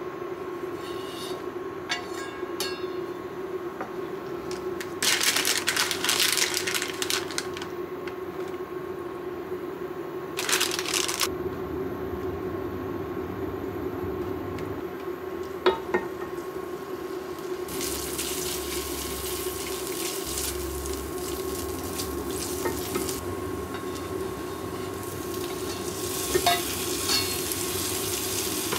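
Garlic and chili sizzling in olive oil in a frying pan, stirred with tongs that click against the pan a few times. The sizzle comes in bursts that swell and fade, with the biggest stretches in the second half, by which time bacon strips are in the pan, over a steady low hum.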